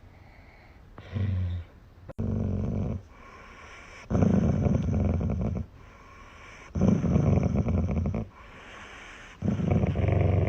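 A dog making low, rough sounds in five evenly spaced bursts, each lasting about a second, one every two to three seconds.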